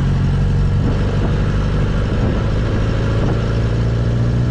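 MG Midget's small four-cylinder engine running at a steady speed, its note holding even.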